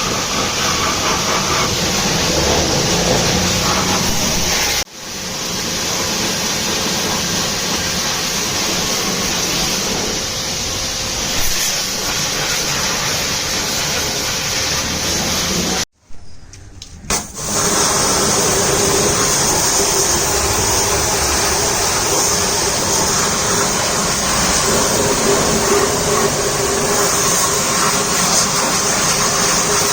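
Pressure-washer jet spraying water steadily, a loud hiss over a machine hum. It breaks off sharply about five seconds in and drops out for about a second around sixteen seconds before starting again.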